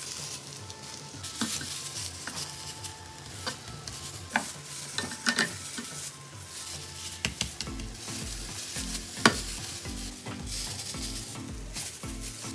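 Omelette and bread frying in a nonstick pan, a steady sizzle broken by several sharp knocks against the pan. Background music with a regular bass beat comes in about halfway through.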